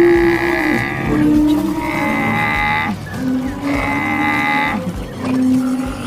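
Cattle mooing: a string of about five long, drawn-out calls, one after another, as animal sound effects.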